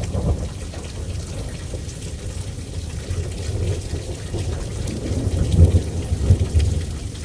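Thunderstorm: steady rain with scattered drops, and thunder rumbling low in the background, swelling loudest about two-thirds of the way through.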